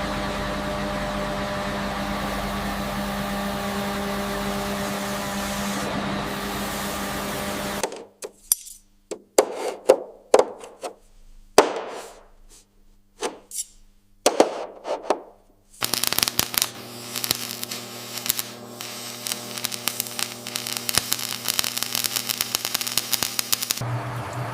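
Aircraft riveting work: a steady machine hum for about eight seconds, then a series of separate sharp knocks, then a long run of rapid hammering, as of a pneumatic rivet gun driving rivets.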